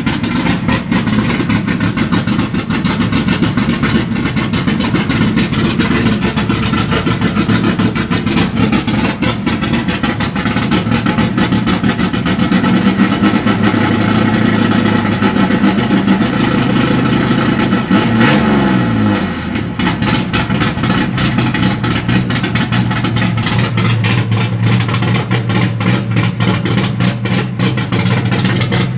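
Chevrolet 400 engine running loud with a rapid pulsing exhaust, held at raised revs. About 18 seconds in the revs drop away and it settles into a steady idle.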